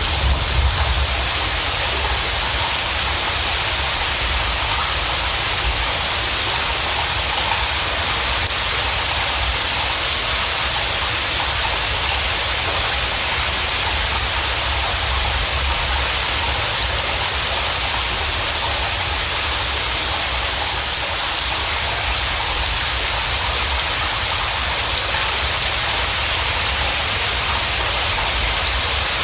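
Steady heavy rain: an even hiss with a low rumble underneath, unchanging throughout.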